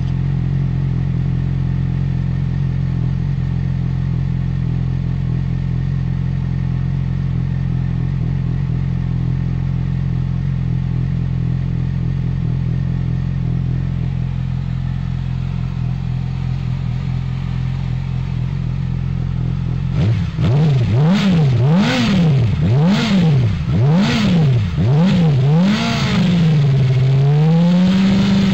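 Yamaha YZF-R6 inline-four sport bike engine idling steadily through its exhaust. About two-thirds of the way in it is blipped on the throttle about once a second, the pitch jumping and falling back each time, then it is held up in a longer rev near the end.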